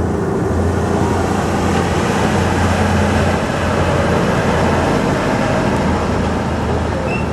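Motor vehicle engine running steadily close by, a low hum over general street noise.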